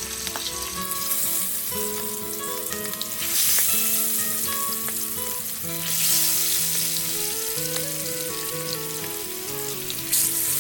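Hilsa fish pieces frying in hot oil, a continuous sizzle that swells about three seconds in and again around six seconds.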